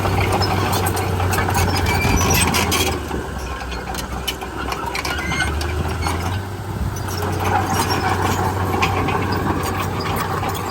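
Komatsu D31P crawler bulldozer's diesel engine running steadily under load, with its steel tracks squealing and clanking as it works. The engine eases off a little about three seconds in, then picks up again.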